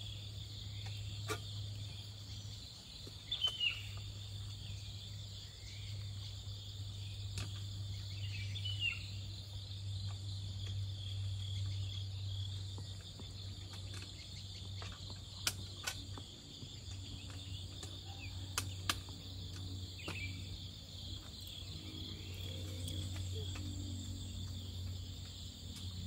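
Steady trilling of crickets, a constant high drone over a low steady hum. Scattered small clicks and knocks come through it at irregular moments.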